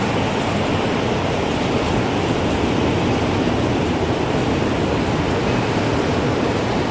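Wind rushing steadily, a full even noise without distinct gusts; no clear chime strikes stand out.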